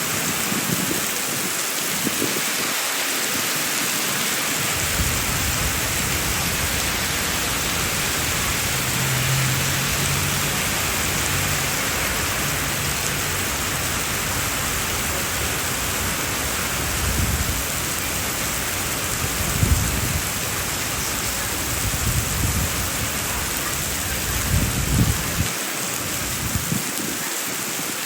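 Heavy rain falling steadily and splashing on the street, a dense even hiss, with low rumbles now and then.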